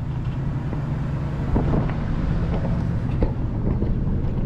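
A car driving: a steady low engine and road hum, with wind on the microphone.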